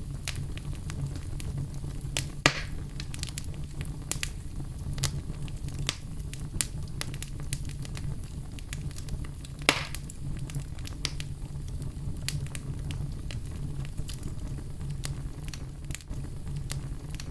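Fire burning in a fireplace: a steady low rumble of flames with constant small crackles and two louder pops.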